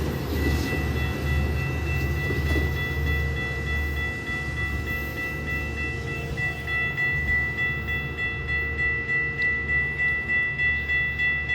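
A train passing, with a steady high-pitched whine over a low rumble that pulses about twice a second near the end.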